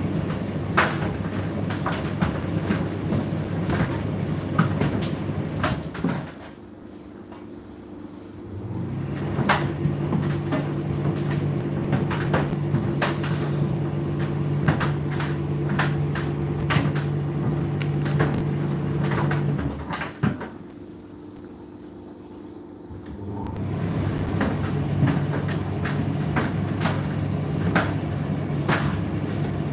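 Indesit IDC8T3 condenser tumble dryer running, its drum turning with a steady motor hum while the clothes knock and click inside. Twice, about six seconds in and again about twenty seconds in, the drum stops for two or three seconds and then starts turning again.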